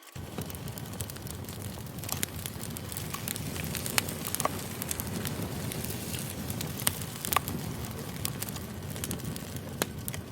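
Campfire burning: a steady low rustle of flames with scattered sharp crackles and pops of the burning wood.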